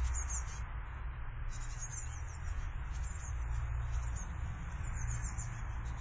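Garden birds chirping, short high-pitched calls coming and going over a steady low rumble and hiss.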